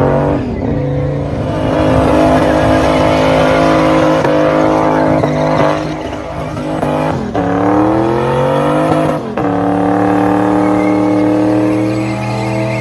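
Toyota UZ-series V8 accelerating hard, its revs climbing steadily and falling sharply at each of three upshifts, near the start and about seven and nine seconds in, then holding high.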